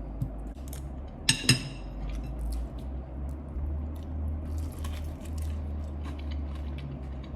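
A person chewing and biting into fried chicken, with small wet, crunching clicks scattered through, over a steady low hum.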